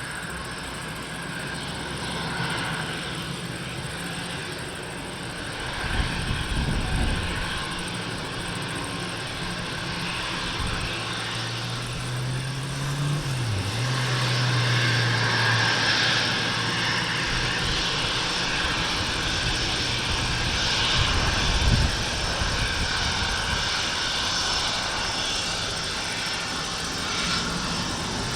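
Twin Rolls-Royce BR710 turbofan engines of a Gulfstream G550 business jet running at takeoff power, a steady jet rush that grows louder about halfway through. Two short low rumbles come about six seconds in and again near the end.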